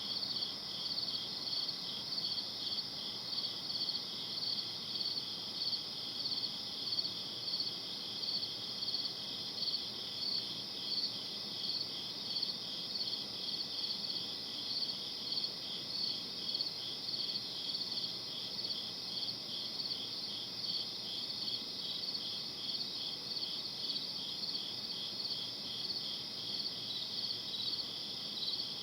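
Night insects chirping in a steady, evenly repeating chorus, over a low background hiss.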